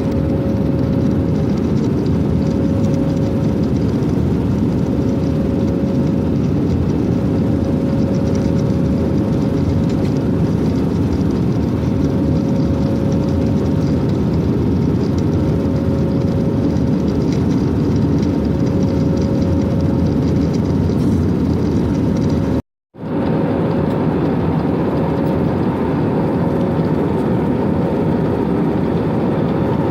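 Airplane's steady engine and airflow drone after takeoff, with a steady hum tone over it. The sound cuts out completely for a moment about three-quarters of the way through.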